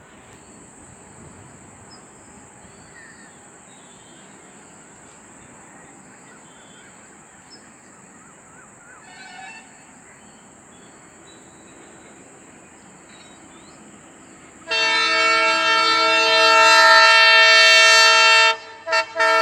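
Faint trackside background, then about fifteen seconds in a locomotive air horn sounds, loud and long, breaks off twice in quick succession and sounds again.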